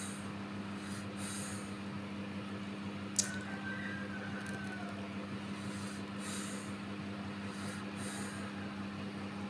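Steady low hum inside a passenger train carriage, with a single sharp click about three seconds in.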